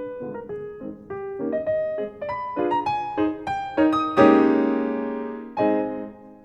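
Solo piano music: a melodic run of notes climbing to a loud sustained chord about four seconds in, which rings and fades before the next phrase begins near the end.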